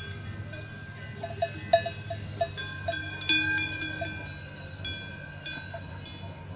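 Metal bells clinking and ringing irregularly, their tones overlapping and ringing on, with the loudest strike a little under two seconds in. A steady low hum runs underneath.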